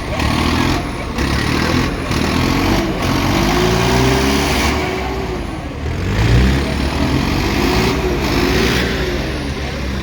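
Tractor diesel engines running hard, their engine speed rising and falling several times.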